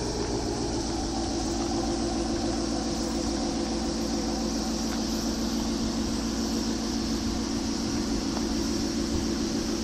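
Exhaust of a Maserati Quattroporte fitted with a Kreissieg aftermarket exhaust, the engine idling steadily.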